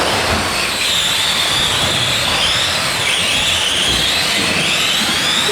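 Several electric Tamiya Euro Truck RC models racing, their motors and drivetrains whining at overlapping high pitches that rise and fall as they speed up and slow down.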